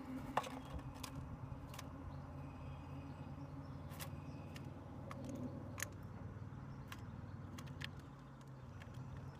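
Steady low rumble of distant road traffic, with a scattering of sharp taps and knocks, the strongest under half a second in.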